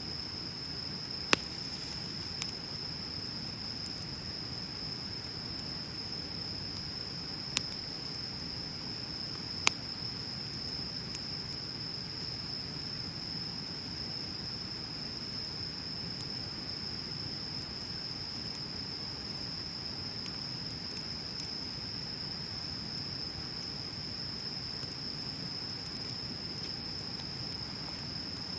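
Wood bonfire burning with a soft steady rush and occasional crackles, with four sharp pops in the first ten seconds. A steady high-pitched drone runs underneath throughout.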